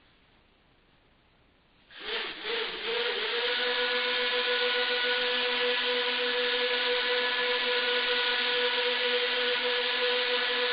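A motor-driven machine starts up about two seconds in, wavers briefly, then runs at a steady speed with an even hum and a whirring hiss.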